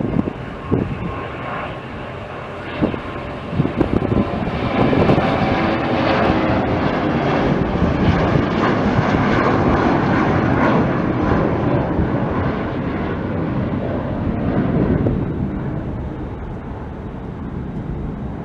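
An airliner's engines passing close by: a loud roar that swells about four seconds in, holds for several seconds, then slowly fades.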